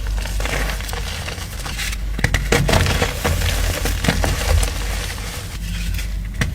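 Chalk being crushed and crumbled close to the microphone: a dense run of small crunches and crackles with a low rumble beneath.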